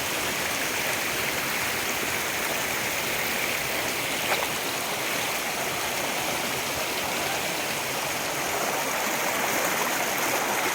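Steady rushing of falling water from a waterfall, with one brief click about four seconds in.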